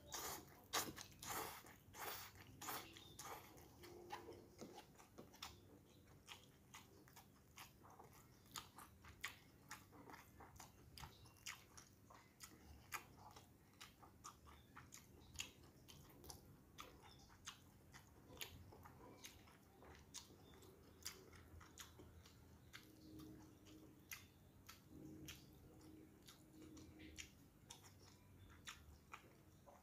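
Faint, close-up mouth sounds of a man eating instant noodles, rice and fried fish: wet chewing with small clicks and smacks several times a second. They are busiest and loudest over the first few seconds, as a mouthful of noodles goes in.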